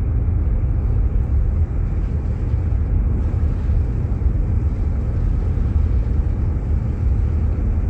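Steady low rumble of a Jeep Grand Cherokee on the move, heard from inside the cabin: engine and tyre noise on a snow-covered road.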